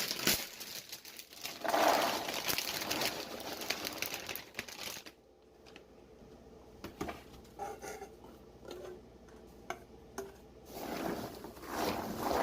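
Popped popcorn rustling and crunching as it is stirred in a bowl. There is a quieter spell in the middle with a few light knocks, then the rustling picks up again near the end.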